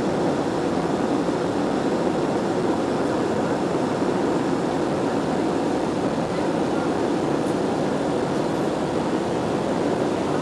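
Steady cabin noise of an Airbus A320 in flight after takeoff: the even rumble of the jet engines and airflow, heard from inside the cabin.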